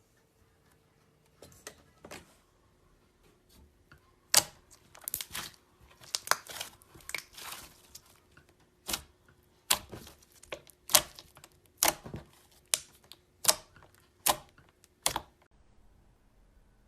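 Slime being squeezed and pressed, making sharp crackling pops. First comes a dense run of crackles, then single loud pops at a fairly even pace, each a little under a second apart, which stop shortly before the end.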